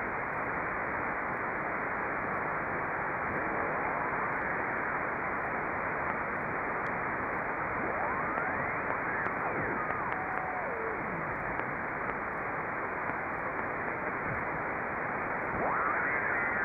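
Amateur radio receiver in SSB mode tuned to the RS-44 satellite downlink: steady hiss limited to a narrow voice bandwidth, with a few faint whistling tones sliding up and down in pitch through the middle and again near the end.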